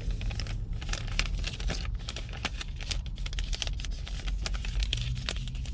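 Crinkly material being handled, with dense, irregular rustling and crackling over a steady low hum.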